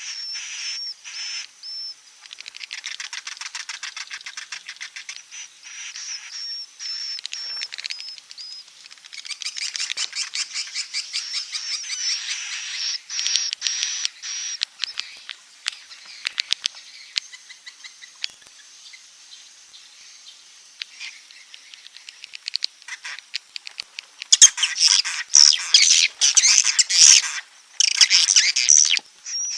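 Swiftlets calling in rapid, high-pitched twittering chirp trains: the swiftlet roosting call (suara walet inap). The calls thin out in the middle, then a louder, denser burst of chirping comes near the end.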